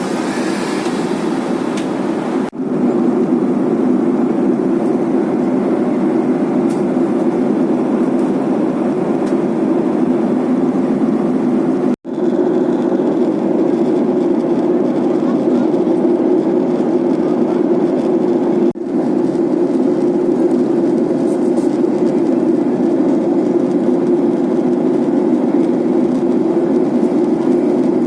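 Steady drone of an airliner cabin in flight, the engines and rushing air making a dense low hum. It drops out for a split second three times.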